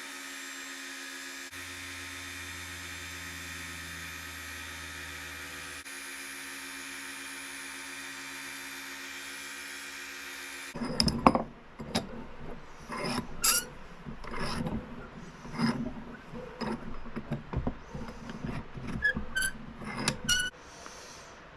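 Knife sharpening. A steady electric motor hum runs for the first half, with a lower drone for a few seconds. After an abrupt change about halfway, there are irregular scrapes, clicks and short ringing metal clinks of steel being worked by hand.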